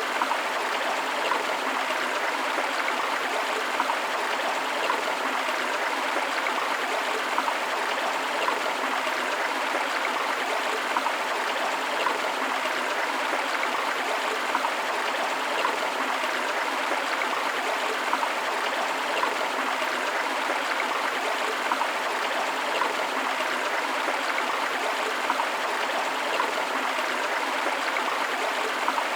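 Running water of a forest river: a steady, even rush of flowing water with small splashes standing out about once a second.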